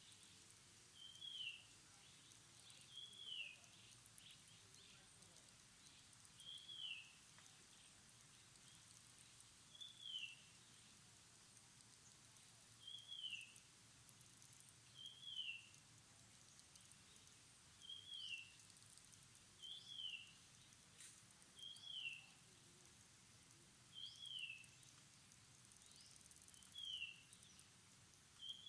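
A bird repeating a short, high call note that falls in pitch, about every two to three seconds, faint over a quiet outdoor background.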